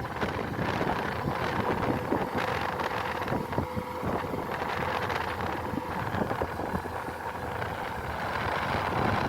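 Kubota DC-105X combine harvester running steadily, a dense mechanical noise with a faint held tone.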